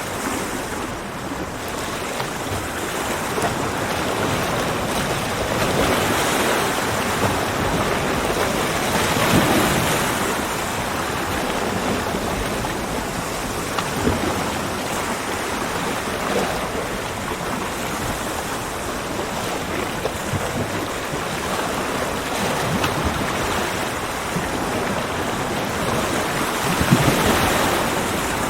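Ocean waves breaking and washing on a beach, a continuous rush that swells and eases, with louder surges about six seconds in, around nine to ten seconds, and near the end.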